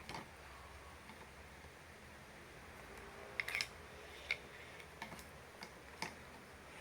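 A few short clicks and taps of small model-airplane parts being handled and fitted together, the loudest a quick cluster about three and a half seconds in, with single clicks after it.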